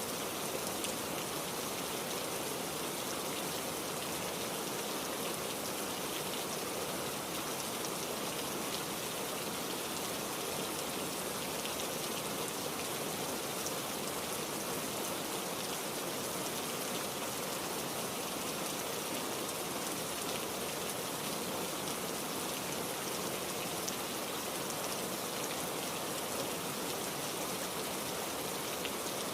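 Heavy rain falling steadily, an even hiss of drops on surfaces with no breaks or thunderclaps.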